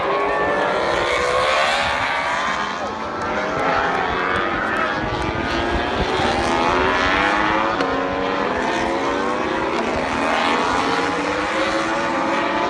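Several MotoGP racing motorcycles running at high revs together, their overlapping engine notes rising and falling as they accelerate, shift and pass.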